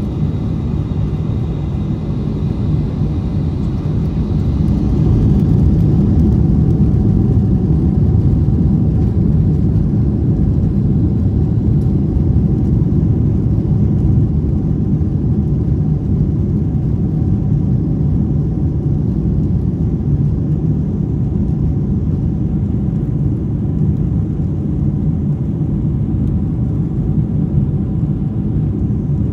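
Cabin noise inside a Boeing 747-400 on its takeoff run: a loud, steady low rumble of the Rolls-Royce RB211 engines and the runway. It swells a few seconds in and then holds steady, with faint steady engine tones above it early on.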